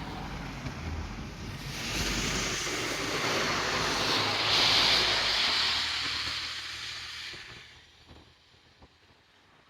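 A train passing by: a rushing noise that swells to a peak about five seconds in, then dies away.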